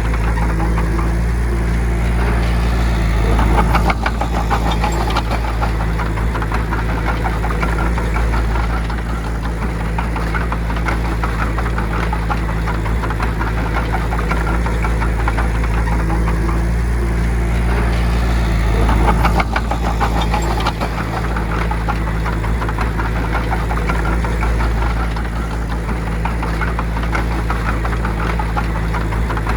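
Bulldozer's heavy diesel engine running steadily with a rapid knocking rhythm, swelling louder twice, a few seconds in and again about two-thirds of the way through.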